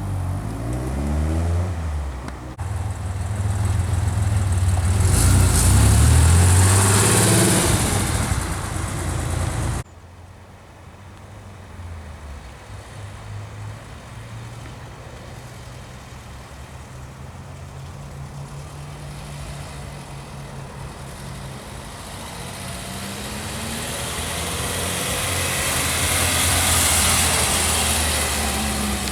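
Car engines as cars drive past one at a time. The first is loud with a rising pitch as it pulls away and stops abruptly about ten seconds in. A second car then approaches more quietly, building to its loudest near the end.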